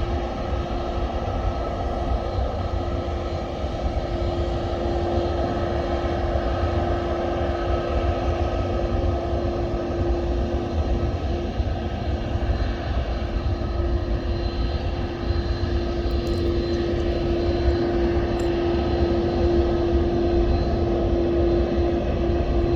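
Airplane engines running steadily: a low rumble and hiss with a constant whine, growing a little louder in the second half.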